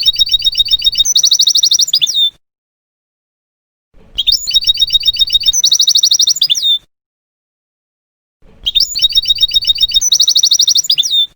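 European goldfinch song phrase played three times over as an identical loop: each time a quick run of chirping notes, then a faster trill, ending in a falling note. Between the phrases there is silence.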